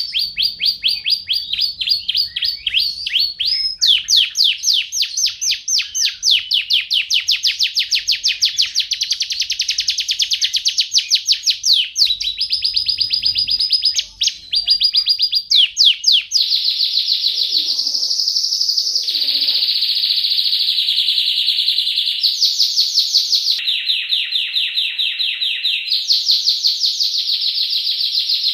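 Domestic canary singing a long, unbroken song of fast, high trills, switching from one trill pattern to another every few seconds.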